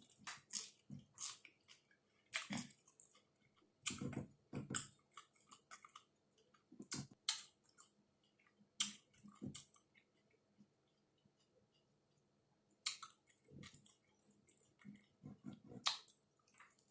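A person chewing tacos close to the microphone, with irregular wet clicks and crackles between bites and a quieter pause partway through.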